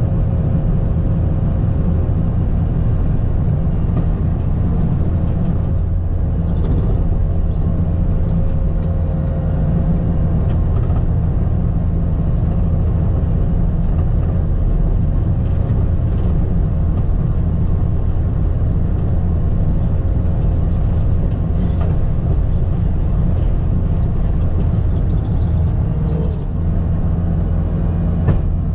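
Skid steer engine running steadily under working load, a constant low drone.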